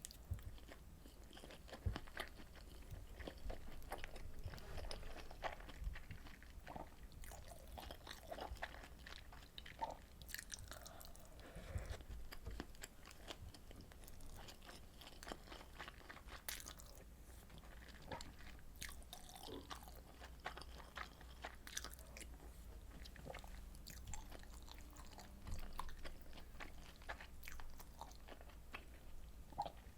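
A person eating close to the microphone: chewing and biting, with many irregular short clicks throughout and a steady low hum underneath.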